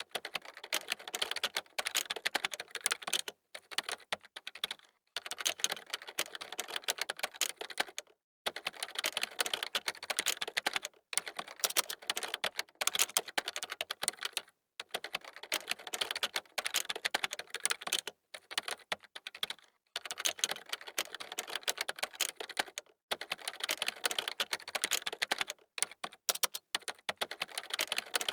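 Computer keyboard being typed on fast, rapid key clicks in runs of a few seconds broken by brief pauses.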